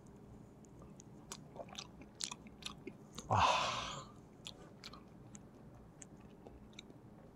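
A person chewing a mouthful of lightly seared salmon sashimi close to the microphone: soft, wet mouth clicks scattered through, with one louder hiss-like noise lasting under a second about three seconds in.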